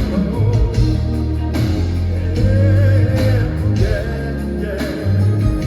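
Live R&B band music with heavy bass and drums, a sung vocal line over it, recorded from the audience.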